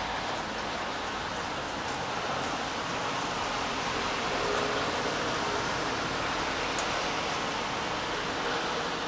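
Steady rain falling, an even hiss with no breaks, with a faint low steady hum in the middle.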